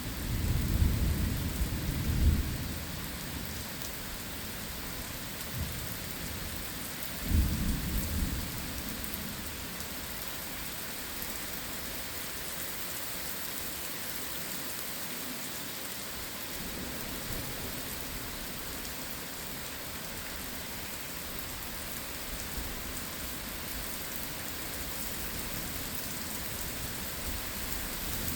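Steady heavy rain falling, with thunder rumbling twice: a roll lasting about two and a half seconds right at the start and a shorter one about seven seconds in.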